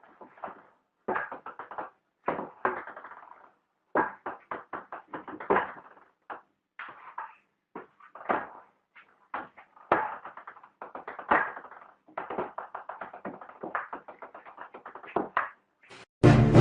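Irregular series of knocks and taps: single strikes and quick runs of several, separated by short pauses.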